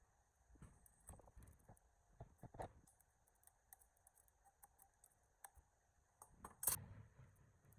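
Faint, scattered clicks and light knocks, with one louder knock late on.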